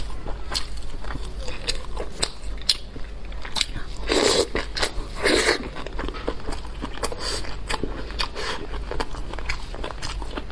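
Close-miked eating: wet chewing and smacking clicks from the mouth throughout, with two louder, longer mouth noises about four and five and a half seconds in.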